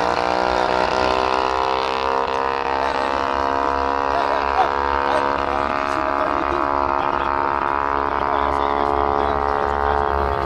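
Car engine idling steadily close by, a deep, even drone with a slight dip in pitch at the start and a slight rise near the end.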